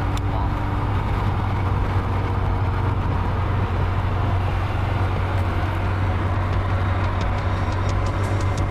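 A car driving at a steady speed: a steady low engine drone with road rumble.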